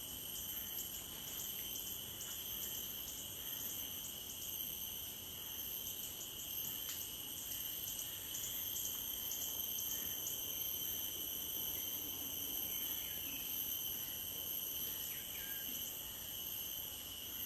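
Steady insect chorus: several continuous high-pitched drones at different pitches, with fast faint ticking over the first few seconds and a few faint short calls near the end.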